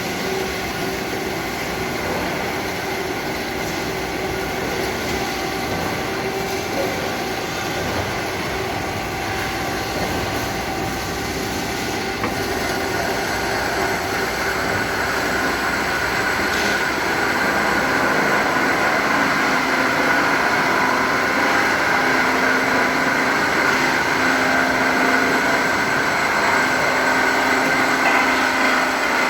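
Automatic muffler-pipe cutting machine running through its cutting cycle: a steady mechanical noise with several held tones, which gets louder and higher-pitched a little past halfway.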